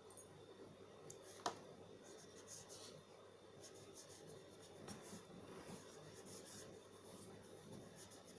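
Faint scratching of handwriting in short, irregular strokes, with one sharper tap about one and a half seconds in.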